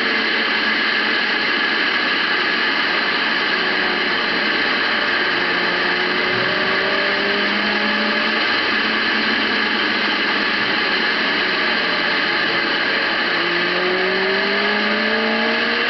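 Large motorcycle being ridden: a steady rush of wind noise over a faint engine note that slowly rises in pitch a few times.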